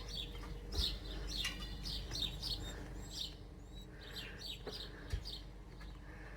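Small wild garden birds chirping and tweeting, many short high calls coming one after another.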